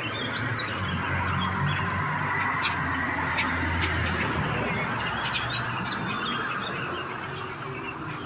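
Songbirds chirping and singing, many short calls scattered throughout, over a steady low background hum.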